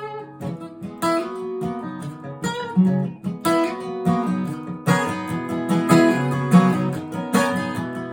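Acoustic guitar playing an instrumental passage, strummed chords mixed with picked notes, with no singing.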